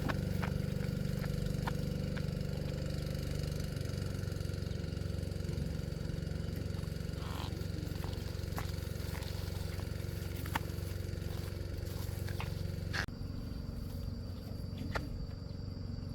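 Small boat engine running steadily with a low hum and a few light clicks, cutting off abruptly about 13 seconds in to quieter outdoor ambience with a steady high insect tone.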